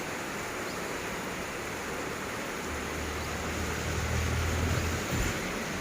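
Steady hiss of rain, with a low rumble that swells about halfway in and fades near the end.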